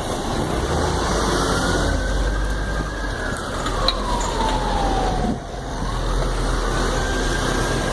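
Emergency vehicle siren wailing slowly up and down. It holds high, falls steadily from about three seconds in, then rises again. Underneath runs a steady rumble of road traffic.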